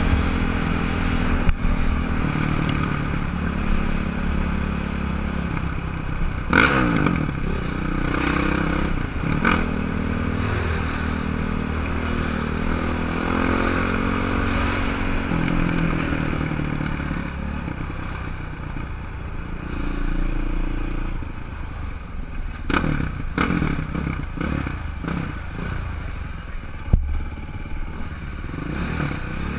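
Honda CRF X dirt bike's single-cylinder four-stroke engine running as it is ridden through traffic, revs rising and falling several times with throttle and gear changes. Occasional clatter and knocks are heard over the engine.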